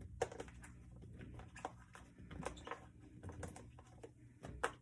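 Irregular light clicks and taps, a few a second: mushrooms being dropped into a pan.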